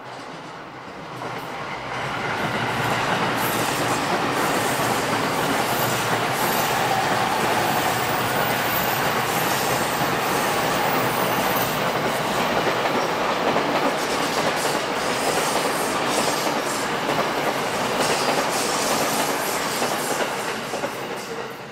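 Electric train running past on a curve: the rumble of its wheels on the track swells over about two seconds, holds steady and loud, with repeated sharp wheel clicks in the later part, and dies away near the end.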